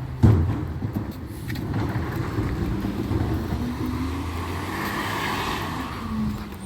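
Recycling truck's engine running steadily, with a sharp loud bang a fraction of a second in.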